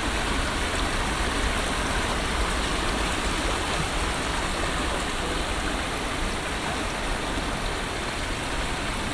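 Steady monsoon rain falling, a constant even hiss with no breaks.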